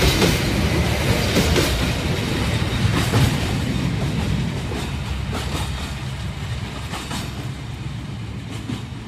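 A slow train's last wagons, ending in a freight boxcar, rolling away on the track: a low rumble with pairs of clicks from the wheels crossing rail joints, a pair every second and a half to two seconds, fading steadily as the train moves off.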